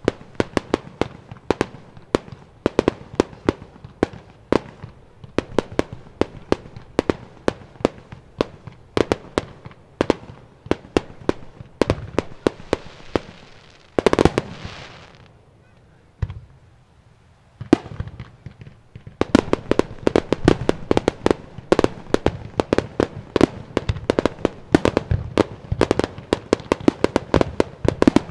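Fireworks display: rapid bangs of shells going off, several a second, with a crackling hiss about halfway through, a brief lull, then a denser barrage of bangs.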